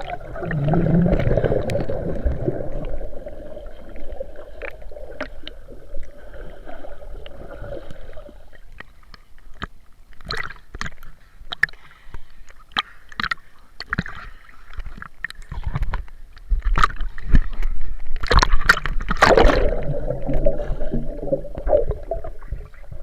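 Water sloshing and gurgling close to the microphone, with scattered splashes and a louder stretch of splashing about nineteen seconds in.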